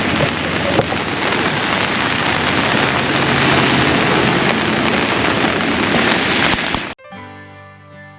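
Rain falling steadily on an umbrella overhead, cut off suddenly near the end by plucked-string music.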